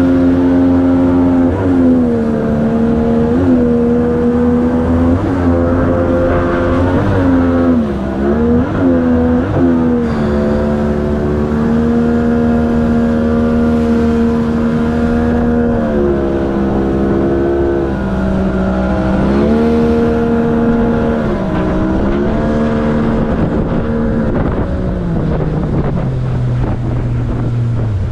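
Outboard engine of an inflatable jet boat running hard, its pitch dipping and climbing again several times with throttle changes, then falling away near the end as it slows.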